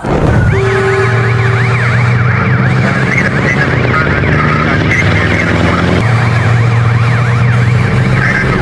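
Emergency vehicle sirens sounding a fast up-and-down yelp, starting abruptly, over a steady low hum.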